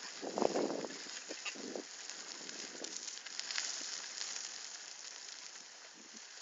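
Bicycle rolling along a forest track: a steady hiss of tyres and wind with a few dull bumps, the loudest about half a second in and smaller ones near two and three seconds.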